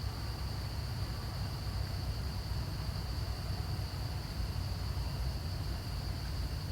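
Steady outdoor ambience: a continuous high-pitched insect drone over a low rumble.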